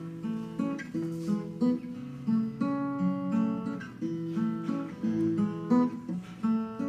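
Acoustic guitar playing an instrumental passage of separate picked notes and chords, a steady accompaniment pattern with no singing.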